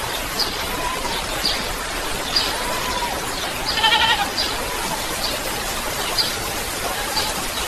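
Steady rain hiss with an animal calling over it: short high chirps repeat every half second or so, and about four seconds in comes a longer, louder bleat-like call.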